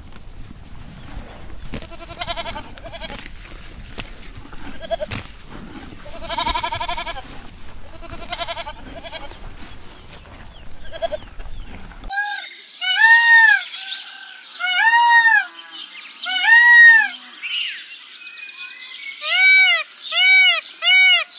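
Goats bleating several times over a steady background hiss. Then, after a sudden cut about halfway through, a peacock calls: a run of loud, arching cries, spaced out at first and coming faster near the end.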